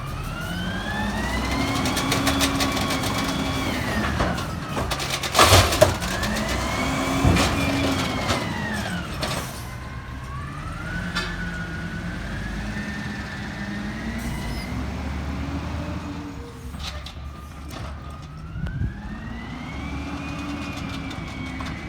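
Diesel engine of a Peterbilt 320 garbage truck revving up and falling back four times, with a whine that rises and falls with it. A loud clatter about five seconds in, and a few lighter knocks.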